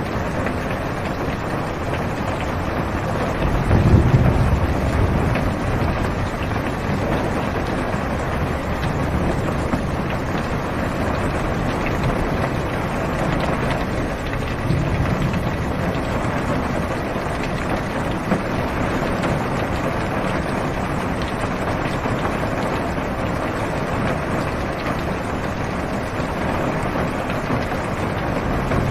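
Steady rain on a car, heard from inside the cabin, as an even hiss. A low thunder rumble swells about four seconds in, and a fainter one follows around fifteen seconds in.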